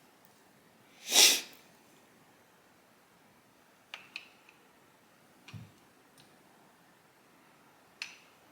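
A short, loud sniff close by about a second in, then a few light clicks and one soft knock as small metal carburetor parts are handled on the bench.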